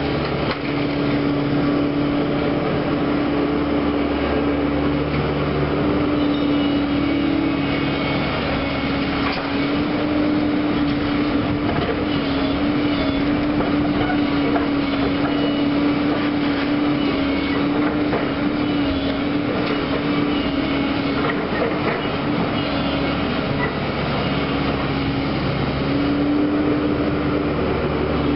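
Caterpillar heavy-equipment machine working a demolition: its diesel engine runs steadily under load with a held whine, over scattered knocks and clatter of debris being moved.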